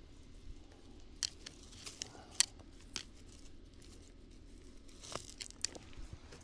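Weeds and brush being pulled and broken: rustling and crunching with scattered sharp snaps, the loudest about two and a half seconds in.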